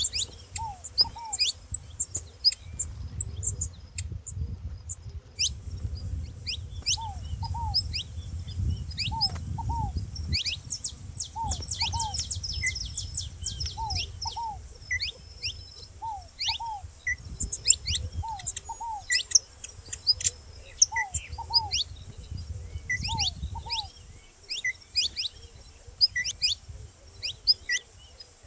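Saffron finch giving rapid sharp high chirps, with a ground dove's soft paired coos repeating every second or two underneath. A low rumble runs beneath the birds.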